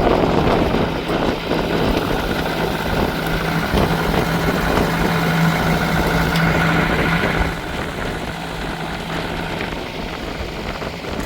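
A boat's engine running steadily with a constant low drone, under wind and water noise from the boat working through choppy water. The noise eases a little about three-quarters of the way through.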